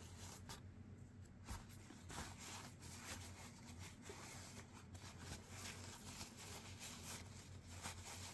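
Faint handling noise: scattered small clicks and rustles over a low steady hum.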